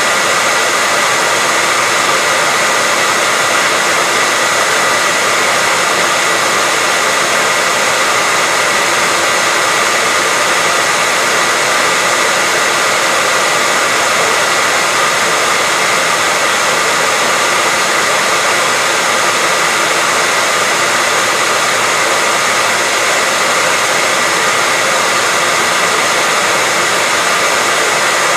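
Hair dryer running continuously with a steady airy rush and a faint constant whine from the motor, unchanging throughout.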